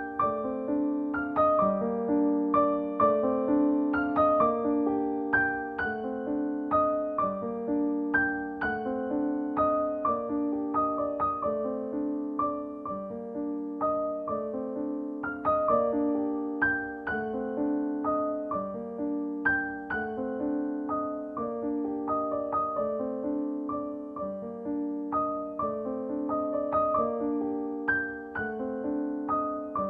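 Background piano music: a gentle, steadily repeating pattern of single notes over a low accompaniment.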